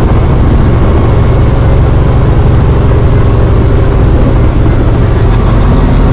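Helicopter engine and rotor running steadily, a loud, continuous low drone.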